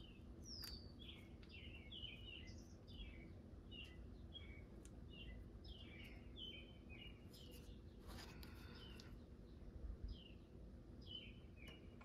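Faint bird chirping: many short, quick, falling notes repeated over and over. Beneath it runs a low steady hum, and there is a brief rustle about eight seconds in.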